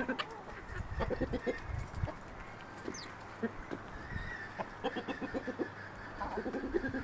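Chickens clucking in short runs of quick low clucks, with a brief high chirp about three seconds in.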